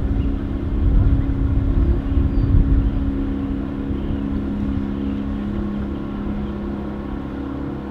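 Motorboat engine running steadily, a low hum over a rumble, gradually getting quieter.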